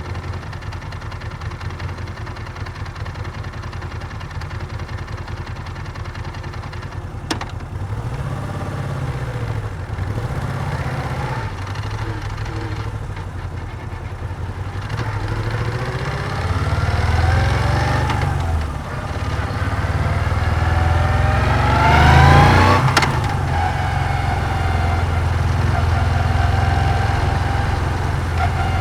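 Moto Guzzi V7's air-cooled transverse V-twin idling, then pulling away and revving up through the gears, its pitch climbing and dropping at each shift, before settling into a steady cruise. A single sharp click comes about seven seconds in.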